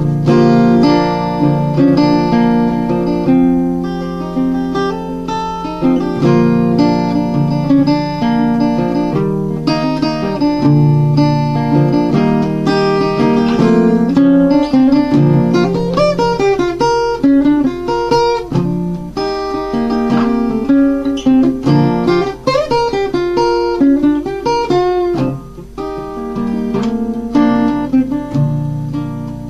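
Acoustic guitar picking and strumming chords in a slow instrumental intro, with no singing.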